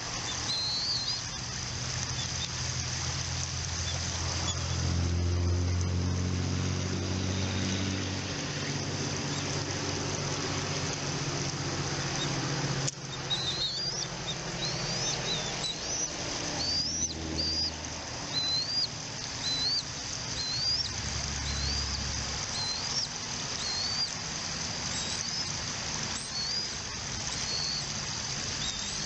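A bird calling a run of short, rising high-pitched chirps, about one a second, over steady outdoor background noise. Early on a low drone swells and fades.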